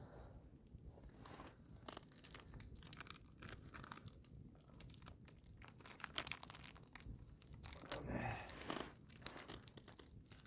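Packaging crinkling and tearing in a series of faint, crisp crackles as a piece of raw steak is unwrapped, with a louder rustle about eight seconds in.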